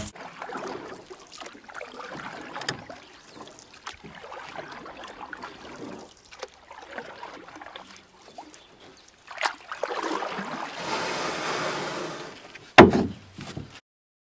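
Uneven water sounds of a boat moving through water, splashing and lapping, with one loud knock near the end. The sound then cuts off abruptly.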